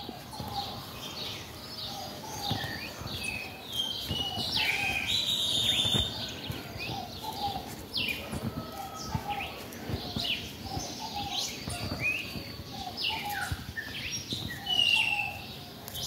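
Several birds chirping and calling, with many quick high chirps and down-sweeping notes over a run of lower, repeated calls.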